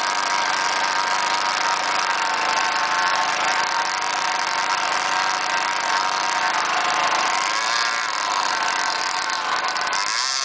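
Radio-controlled boat motor running steadily, its pitch rising and falling as the throttle changes, with a sharper climb near the end.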